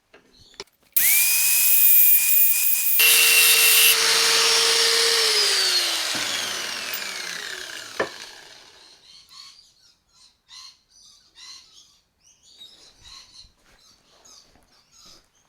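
Power tool with a cut-off wheel starting abruptly, grinding down the steel jaws of circlip pliers with a loud hissing whine, then switched off and winding down with a falling whine over several seconds. A sharp click comes near the end of the wind-down, followed by faint small handling knocks.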